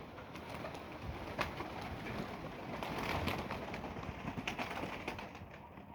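Domestic pigeons cooing, with scattered sharp clicks.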